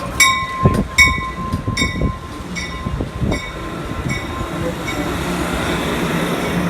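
A warning bell ringing about twice a second, fading out about three seconds in, followed by the steadily building rumble of an approaching commuter train.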